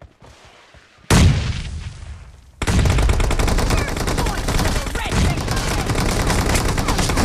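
Video game gunfire. A single loud blast about a second in rings away, then rapid, continuous automatic fire starts about two and a half seconds in.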